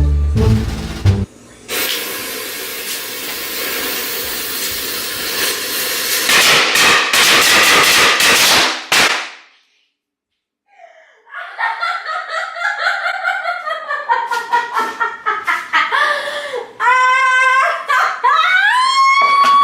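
A string of firecrackers going off, a fast dense crackle of pops for about seven seconds that ends abruptly. After a short silence, a person laughs and shrieks, the voice swooping up and down in pitch.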